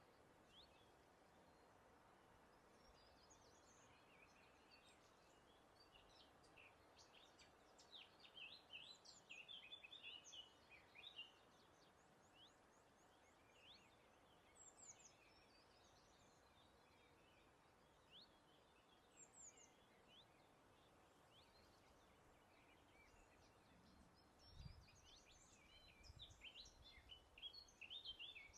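Several wild birds singing faintly, with scattered chirps and short trills that bunch into two livelier spells, one about a third of the way in and one near the end, over a steady soft hiss of breeze.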